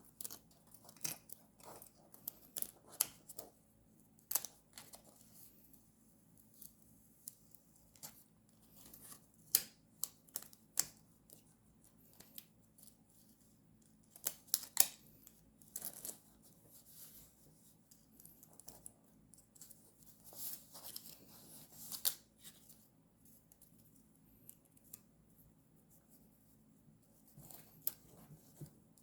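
Scissors snipping paper in short, irregularly spaced cuts, with paper being handled between them.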